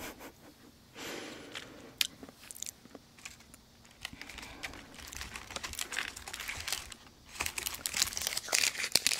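Close-miked chewing of a chewy dried jujube, with wet mouth clicks and smacks that grow denser in the second half.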